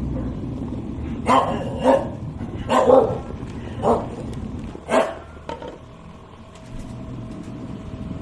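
A dog barking, about six short barks between one and five seconds in, over a steady low rumble.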